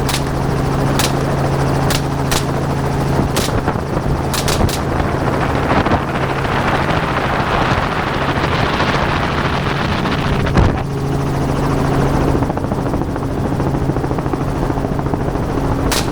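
Helicopter running in flight: a steady, loud drone with a constant low hum. Several short sharp clicks cut through it in the first few seconds, and one more about ten seconds in.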